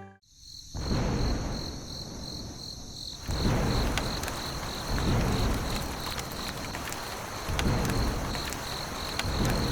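An insect, cricket-like, chirping in an even pulse of about two chirps a second, over a rumbling noise that swells and fades every second or two.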